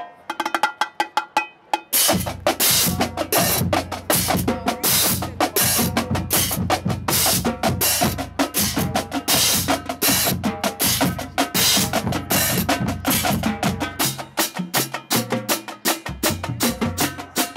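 Marching drumline playing a fast cadence of snare drums with bass drums underneath. It opens with a couple of seconds of sparse, sharp strokes, then the full line comes in, and the bass drums briefly drop out about three-quarters of the way through.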